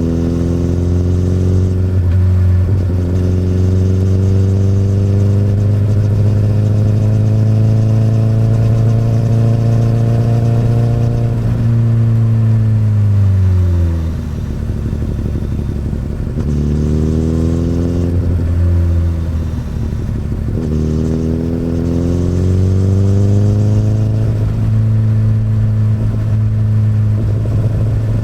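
2008 Honda CBR1000RR's inline-four with an Akrapovic exhaust, heard on board while riding. The exhaust note climbs slowly for about ten seconds under steady throttle, drops away sharply about halfway as the throttle closes, rises and falls twice more in short throttle openings, then settles into a steady cruise.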